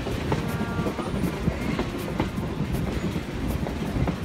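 Heritage passenger train car rumbling along the track, with sharp clicks of the wheels over the rail joints about every half second.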